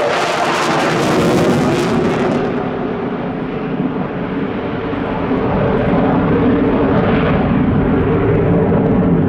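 Boeing F-15QA jet fighter's twin General Electric F110 engines running loud on a display pass: the high jet hiss falls away after about two and a half seconds, leaving a deep rumble that swells again in the second half.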